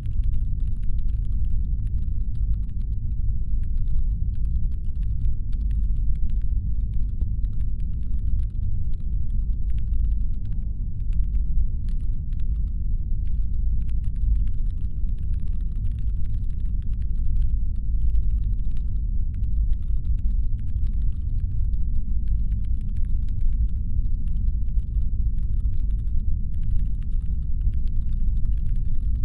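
Steady deep rumbling brown noise, standing in for a spaceship's engine hum, with faint irregular clicking scattered over it.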